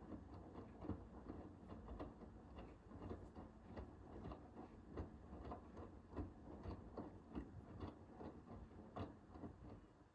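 Hoover H-WASH 500 front-loading washing machine drum turning in the wash phase, with laundry and water tumbling as a quiet, irregular run of ticks and knocks over a low hum. The drum stops near the end, leaving it almost silent.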